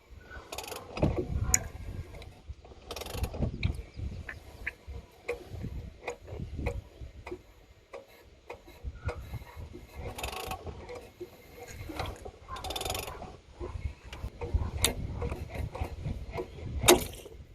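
Ratchet wrench working the crankshaft pulley of a Mercedes M270 1.6 petrol engine, turning the engine over by hand: irregular spells of ratchet clicking with low rumbling, and one sharp, loud click near the end.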